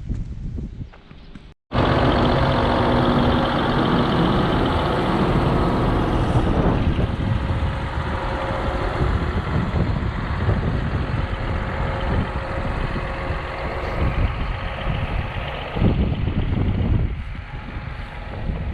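A tractor engine running steadily and loudly, starting after an abrupt cut about a second and a half in.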